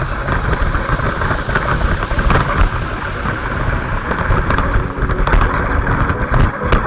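Radio-controlled car driving, a steady motor whine over a loud rumbling, crackling noise, with a few sharp clicks.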